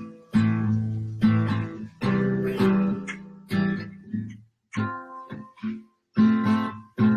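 Acoustic guitar strummed, a run of chords each struck sharply and left to ring, about two strums a second with short gaps.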